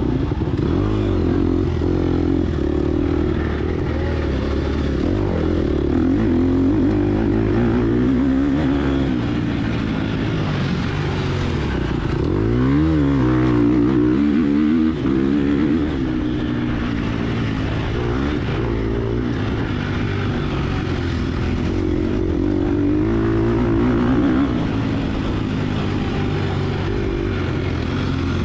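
Gas Gas EX250F dirt bike's 250 cc four-stroke single-cylinder engine under hard riding. It revs up and down again and again as the throttle opens and closes, with a sharp drop and quick climb back about halfway through.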